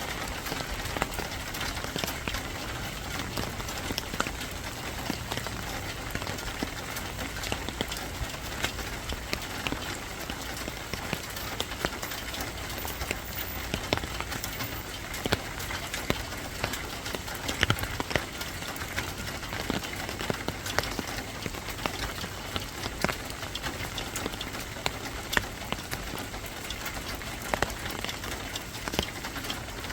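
Steady rain falling, with many irregular drops ticking sharply on a hard surface.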